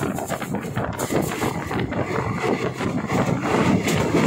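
Passenger train in motion: a steady rumble of wheels on the rails mixed with wind rushing past the microphone.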